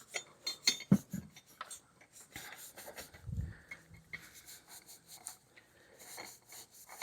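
Abrasive scuff pad rubbed by hand over a stainless steel exhaust muffler: faint, uneven scratchy strokes with a few small clicks and knocks in the first second or so.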